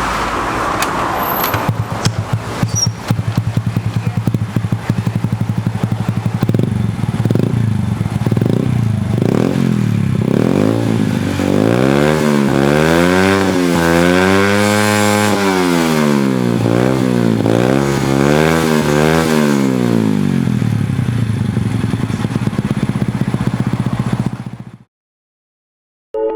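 Honda EX5 motorcycle engine idling through a Leovince aftermarket exhaust, blipped in about five short revs, then revved up and down in several longer sweeps before settling back to idle. The sound cuts off suddenly near the end.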